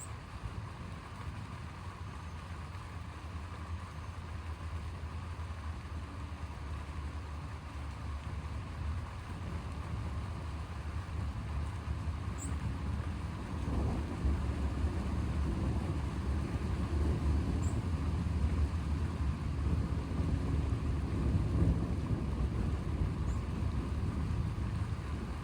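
Long, low rolling thunder rumbling from a distance, swelling about halfway through and easing off near the end.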